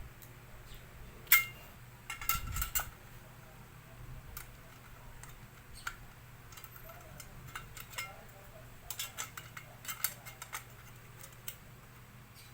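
Light clicks and metallic clinks of small laminator parts and tools being handled during repair, with a sharp ringing clink about a second and a half in, a cluster just after two seconds, and another cluster near the end. A faint steady low hum runs underneath.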